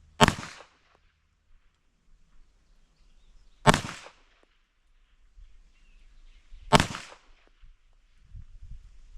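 Three gunshots from a firearm, fired one at a time about three seconds apart: slow, aimed fire in a 10-round accuracy drill.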